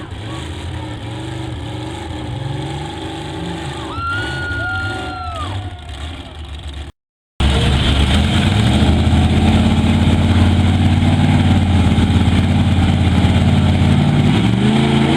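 Mega truck engine running, with a high held tone for about a second and a half midway. After a short cut-out the engine is louder and steady, revving up near the end.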